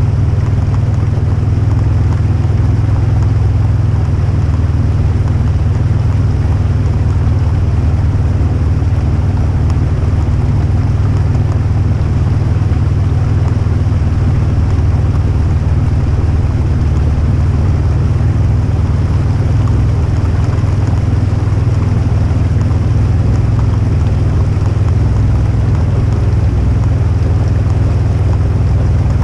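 Polaris RZR High Lifter 1000 side-by-side's engine running at a steady, loud pace while driving.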